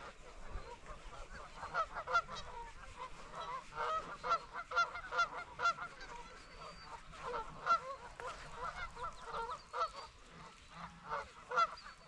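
Geese honking, many short calls overlapping and repeating throughout, as from a flock.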